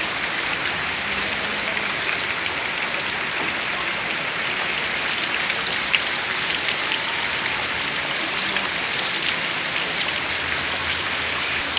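Heavy rain falling: a steady hiss thick with fine drop ticks.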